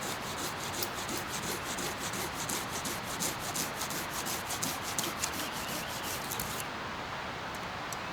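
Hand saw cutting through a firewood log with rapid back-and-forth scraping strokes, stopping about six and a half seconds in.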